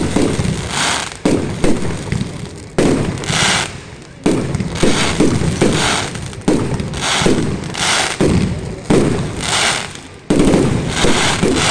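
Fireworks display: a rapid run of bangs, one every half second to a second, each fading away, with short bursts of hiss between them.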